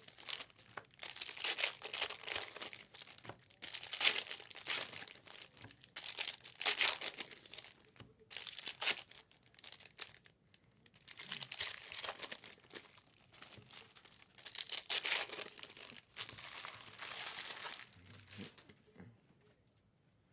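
Trading card pack wrappers and box packaging being torn open and crinkled by hand, in a series of bursts with short pauses that stop near the end.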